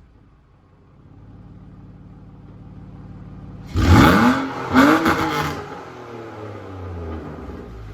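BMW engine in a Mazda MX-5 Miata drift car idling, blipped twice in quick succession about four and five seconds in, then settling back to idle, through a still unfinished exhaust.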